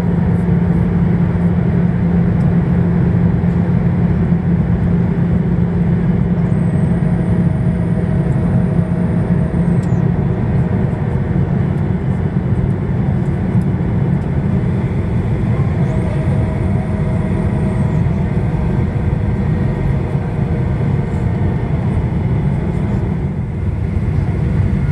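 Steady cabin noise of a Boeing 737-800 in flight: the roar of its CFM56 turbofan engines and the airflow, with a low hum that fades after about ten seconds. A faint thin whine comes in twice, about a third of the way in and again past the middle.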